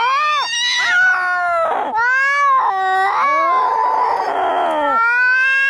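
Angry cats yowling and caterwauling in long, drawn-out wavering calls, with a harsher, rougher stretch in the middle: the sound of a cat fight.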